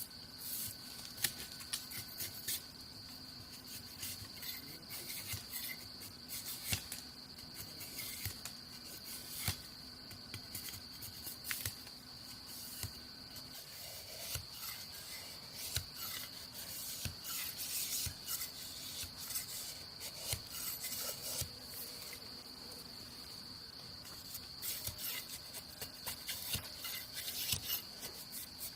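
Insects droning steadily in one high, unbroken tone, over irregular scraping, rubbing and clicking sounds throughout.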